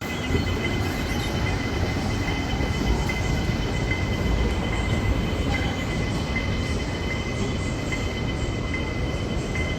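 Train running, a steady low rumble with a thin steady high whine over it.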